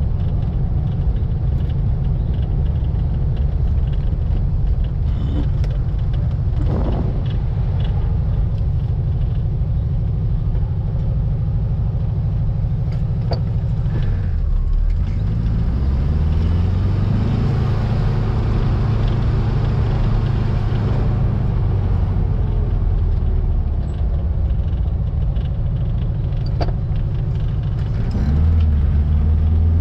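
A 1700cc air-cooled flat-four VW engine in a Baja Bug, running under way on the road. About halfway through the revs drop and then climb again, and near the end they rise as it accelerates.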